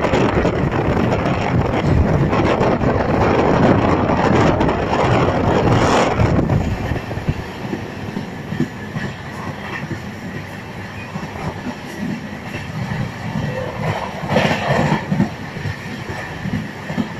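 Passenger train running at speed, heard from aboard a coach: wind and track noise rush loudly for the first six seconds or so, then drop to a quieter rumble with the wheels knocking over rail joints.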